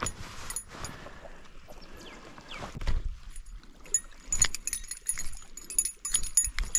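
Irregular knocks and clicks on a small fishing boat, with a splash of water near the start.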